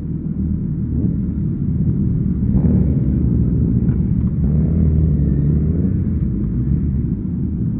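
Suzuki Hayabusa's inline-four engine running while the bike is ridden, heard from on board as a steady deep rumble.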